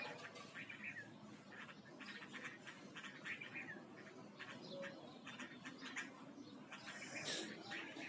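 Birds chirping: many short, quick calls in close succession.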